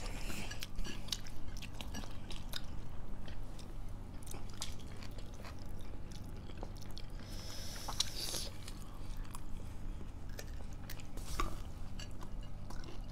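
Close-miked eating: chewing and biting of a vegetable khana set, with many small sharp mouth and food clicks and a short noisy rustle about eight seconds in.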